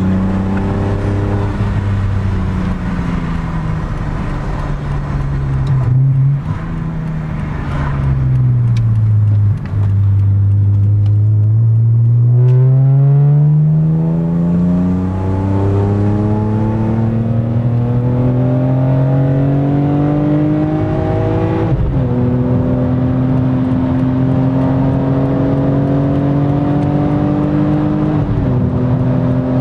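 BMW E46 M3's 3.2-litre straight-six with a GruppeM intake, heard from inside the cabin. The engine note falls as the car slows, with an SMG downshift about six seconds in. It then rises through a long pull under acceleration, with a sharp upshift about two-thirds of the way through and another near the end.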